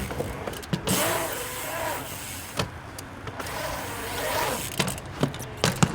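Bike tyres rolling and rushing on a concrete skatepark, broken by several sharp knocks as the bike hits ramp edges, taps and lands.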